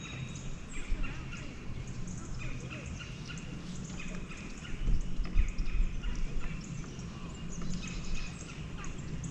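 Birds chirping and calling, many short overlapping calls, over a low steady hum, with a brief low thump about halfway through.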